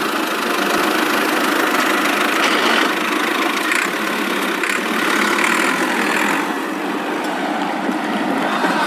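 Steady engine running noise for a toy tractor, thin, with almost no deep bass.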